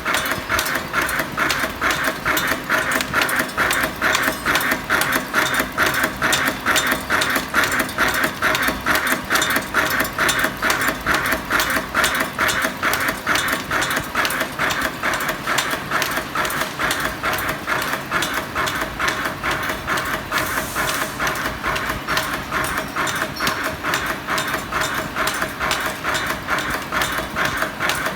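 Automatic mechanical cotter pin making machine running, a steady rhythmic clatter of about three strokes a second as it feeds, cuts and bends wire into split pins.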